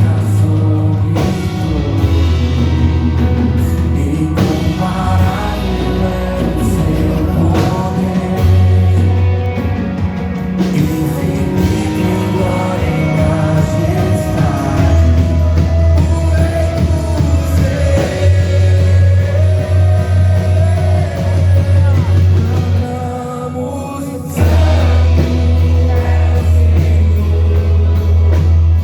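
A worship band playing a rock-style song with singing over a heavy bass line. The bass drops out briefly about 23 seconds in, then the full band comes back in.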